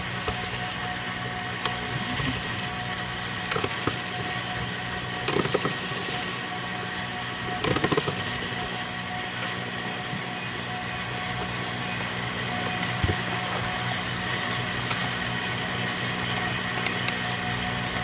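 A steady hum with several short clicks and clatters, about four of them in the first half.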